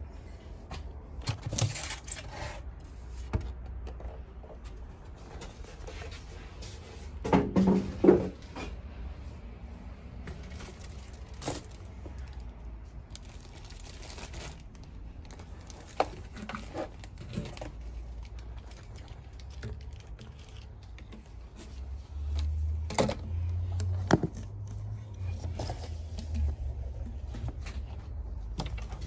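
Scattered knocks, clicks and rustling of things being handled, the loudest cluster about a quarter of the way in, with a low rumble joining in the last several seconds.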